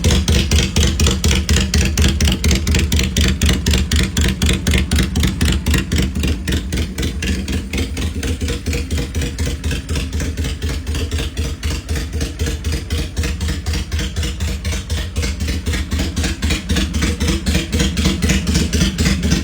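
Honda Shadow V-twin motorcycle engine running at a steady idle, with an even, rapid pulsing exhaust beat.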